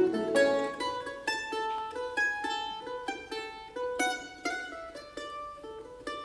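A plucked string instrument playing a slow, sparse melody of single notes, each one ringing and fading before the next; the low sustained notes underneath drop out about a second in.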